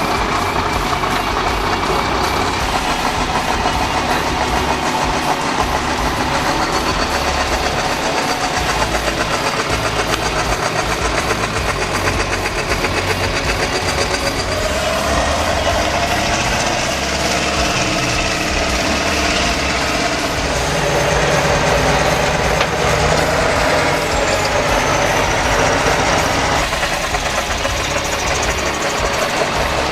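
Heavy truck diesel engine running continuously, working a truck-trial course, a little louder from about 21 to 26 seconds in.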